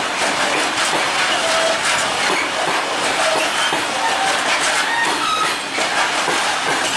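Freight train of Talbot-type self-discharging hopper wagons rolling past. Its wheels make a steady clatter and rumble on the rails, and short high squeals come and go.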